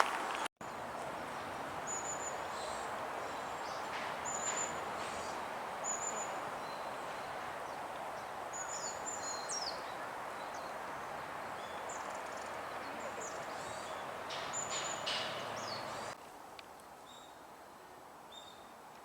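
Varied tit calling: short, thin, high notes repeated about once a second, mixed with a few quick down-slurred notes, over steady outdoor background hiss.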